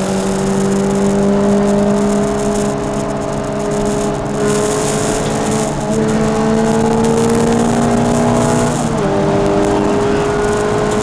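Peugeot 306 Rallye's four-cylinder engine pulling hard, heard inside the cabin. The note climbs steadily and is broken briefly about six seconds in and again about nine seconds in, where the pitch steps as it changes gear.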